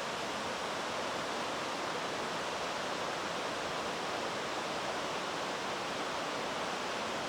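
Fast-flowing mountain stream, its water rushing with a steady, even noise.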